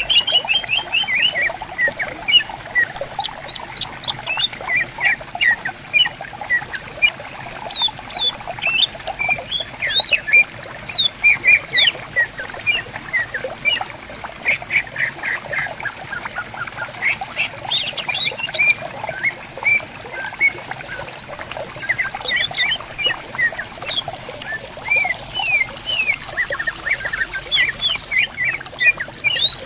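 Green leafbirds (cucak ijo) singing and answering one another in a dense, rapid run of short sweeping whistled notes. A gently flowing stream burbles steadily underneath.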